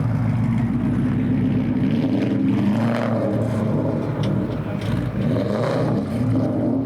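A car engine running steadily at low revs, its deep note wavering slightly in pitch.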